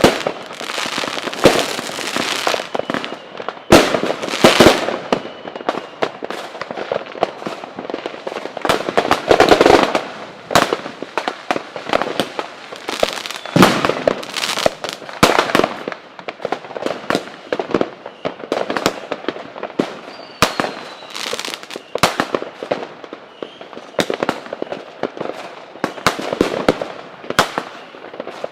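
Fireworks display: a continuous run of bangs and crackles, some bangs much louder than others, with faint rising whistles of rockets going up now and then.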